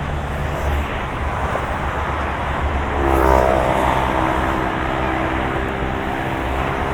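Steady road rumble and tyre noise of a moving car. About three seconds in, an engine hum comes in and gets a little louder, dips slightly in pitch, then holds steady.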